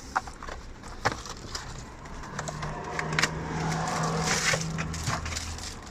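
Plastic packaging crinkling and tearing as a new cabin air filter is unwrapped, with scattered sharp clicks and crackles. A low steady hum sounds through the middle of it.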